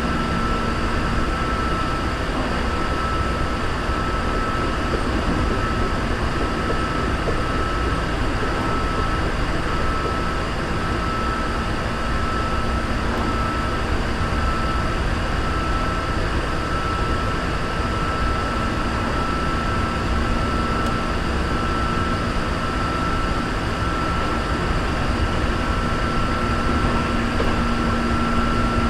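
Hankyu 3300 series electric commuter train running between stations, heard from inside the car: a steady rumble of wheels on rail with a constant high whine and a lower hum over it.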